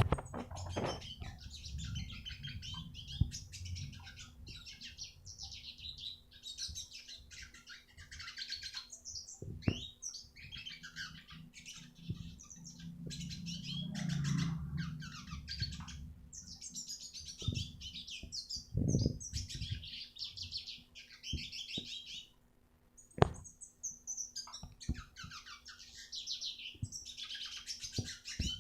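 Red siskin singing: long phrases of rapid, high twittering trills broken by short pauses. A few sharp knocks sound behind it.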